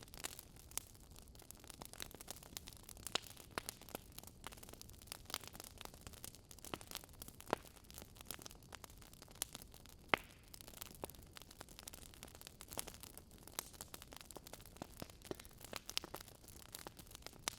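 Wood fire crackling in a fireplace: a faint, irregular patter of small pops and snaps over a soft hiss, with a few sharper pops standing out, the clearest about ten seconds in.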